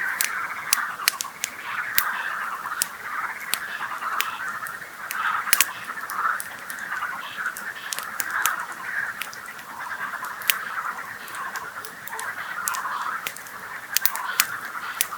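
A dense chorus of frogs calling without pause from many animals at once, with the sharp, irregular crackle and pops of a wood campfire over it.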